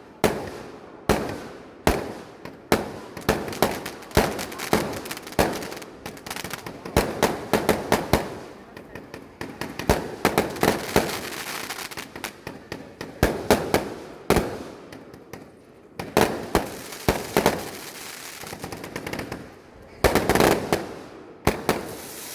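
Fireworks going off: an unbroken series of sharp bangs, some single and some in quick rattling clusters, each fading with a short echo.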